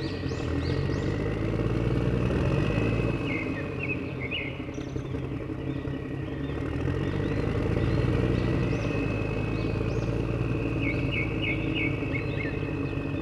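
Low, steady engine-like running of an RC construction vehicle that swells twice and eases off, with birds chirping and whistling over it.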